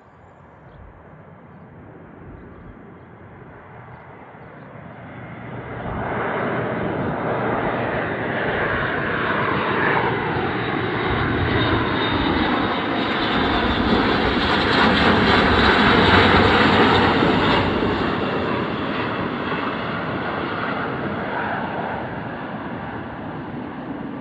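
Airbus A400M Atlas's four turboprop engines passing by: the sound grows, jumps sharply about six seconds in, is loudest around two-thirds of the way through, then fades, with the engine tones gliding in pitch as it goes past.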